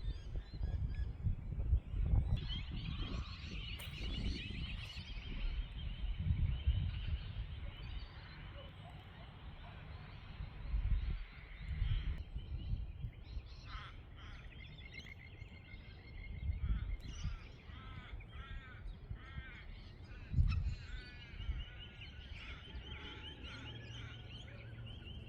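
Birds calling outdoors: many short, repeated chirping calls, with gusts of wind buffeting the microphone.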